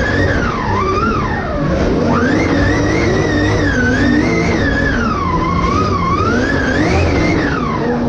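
Drift car's engine heard from inside the cockpit, its revs swinging up and down repeatedly as the car is driven hard through a drift.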